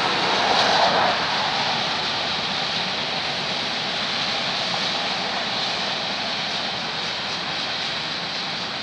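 Union Pacific manifest freight train rolling past: a steady rushing noise of wheels on rail, with a brief louder swell about a second in.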